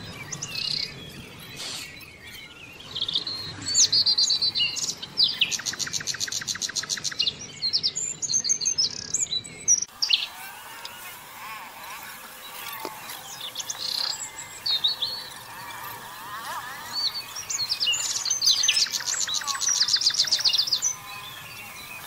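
Small birds chirping and calling, with a rapid trill a few seconds in and again near the end.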